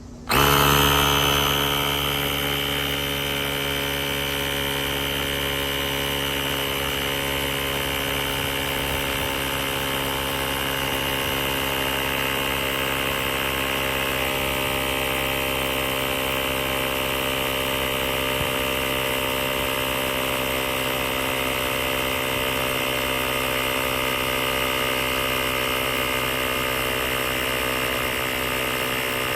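AstroAI L7 cordless electric air compressor running. It starts suddenly just after the beginning, is a little louder for the first second or two, then runs on at a steady pitch.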